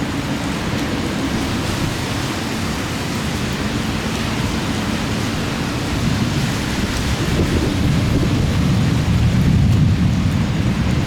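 Steady rain falling during a thunderstorm, with a low rolling rumble of thunder that builds in the second half and peaks near the end.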